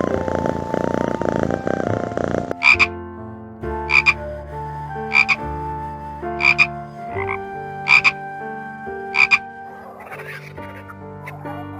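An animal calling: a rapid buzzing call for about two and a half seconds, then short sharp calls repeating about every second and a quarter, with held tones sounding between them.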